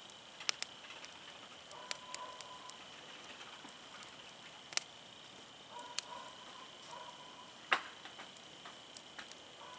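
Wood fire crackling, with sharp pops at irregular moments over a low hiss.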